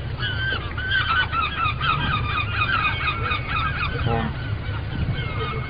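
A flock of birds calling: many short squawking calls, several a second and overlapping, over a low steady rumble.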